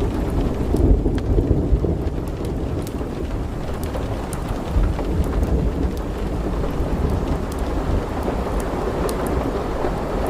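Strong wind gusting through trees, rumbling heavily on the microphone, with scattered faint ticks. The gusts swell about a second in.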